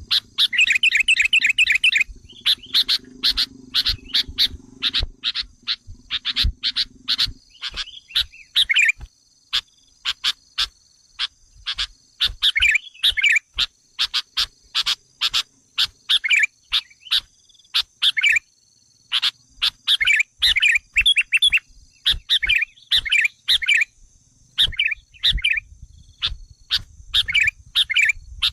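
Sooty-headed bulbul (kutilang) lure calls: bursts of rapid, agitated chattering notes, one after another with short pauses. It is the excited, scolding sound used to provoke wild bulbuls.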